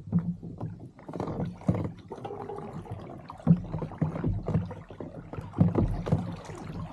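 Water sloshing and slapping against a kayak's hull, with irregular knocks and bumps on the hull.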